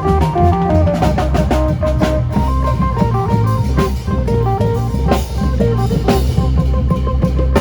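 Isan lam phloen band music: a fast plucked phin melody over a drum kit and heavy bass with a steady, driving beat.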